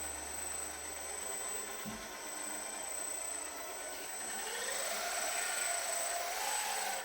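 Small electric motors driving the model tug boat's azimuth thruster propellers, churning water with a rushing hiss and a high steady whine. A pitch rises about four and a half seconds in as the motors speed up.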